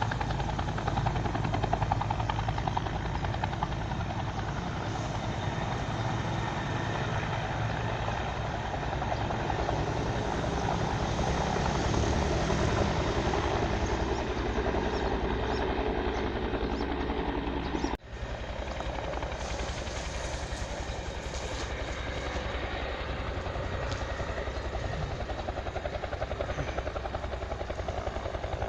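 Bell 212 twin-turbine helicopter running, its two-bladed main rotor chopping in a fast, steady rhythm over turbine noise. The sound cuts out for an instant about two-thirds of the way through.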